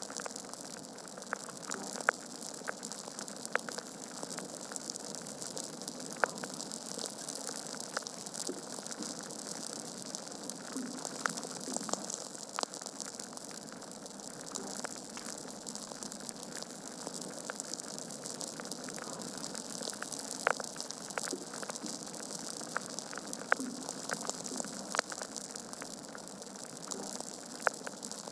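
Wood fire burning in a fireplace: a steady soft hiss with frequent sharp crackles and pops at irregular intervals.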